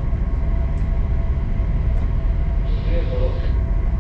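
Ship's engine running, heard on board as a steady low rumble with a faint hum above it, while the vessel manoeuvres. A faint voice is heard about three seconds in.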